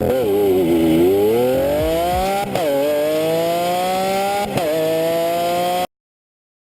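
Engine accelerating hard, its pitch climbing and dropping sharply twice as it shifts up through the gears, then cutting off suddenly.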